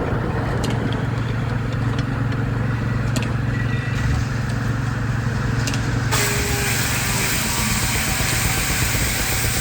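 Sawmill machinery running steadily with a low hum and a few faint clicks. About six seconds in, a steady hiss suddenly joins.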